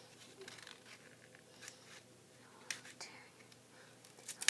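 Faint scratching and a few sharp clicks of a small toy eraser package being worked at by hand to get it open.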